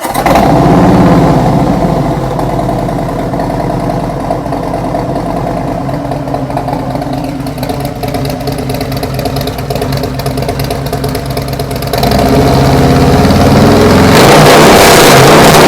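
Harley-Davidson V-twin motorcycle engine with new Tab Performance 50 Cal slip-on mufflers and Zombie baffles, starting and catching with one quick blip of the throttle. It then idles loudly with a lumpy exhaust note, getting louder about twelve seconds in and louder again near the end as it is revved up.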